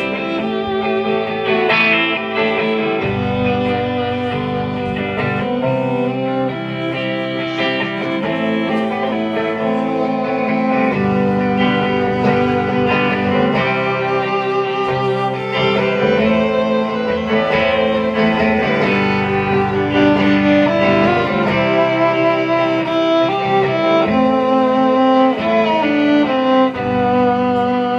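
Live band playing an instrumental break: strummed guitars under a sustained melodic lead line with held, gliding notes.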